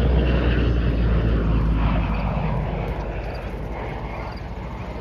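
A P-38 Lightning's twin Allison V-1710 V12 piston engines making a pass. The sound is loud for the first couple of seconds, then fades steadily as the plane moves away.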